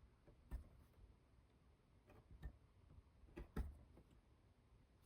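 Faint, scattered light taps and clicks of a hand tool working on thin wood as boards are marked on a model wall, five or so irregular ticks with near silence between.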